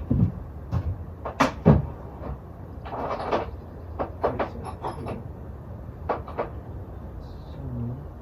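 Hand tools knocking and clinking against each other as someone rummages through them, with a short rattling clatter about three seconds in.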